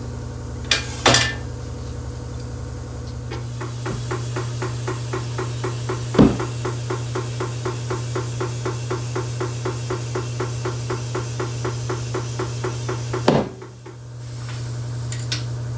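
Tire-shop machinery at work: a steady machine hum with a regular mechanical clicking, about four clicks a second, for some ten seconds, and a few sharp metal knocks, the loudest about six seconds in.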